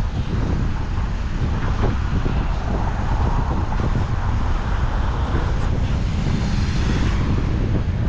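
Steady low rumble of outdoor street noise, with road traffic and wind on the microphone.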